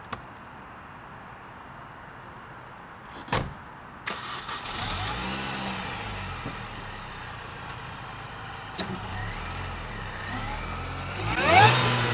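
A car door thumps shut. About four seconds in, the 2004 Mini Cooper S's supercharged 1.6-litre four-cylinder, fitted with a 17% reduction supercharger pulley, starts and settles into a steady idle. Near the end it revs up sharply, the loudest moment.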